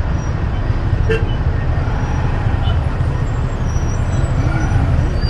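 Steady low rumble of riding a bike through city traffic: engine and road noise from the bike and the vehicles around it, with a short click about a second in.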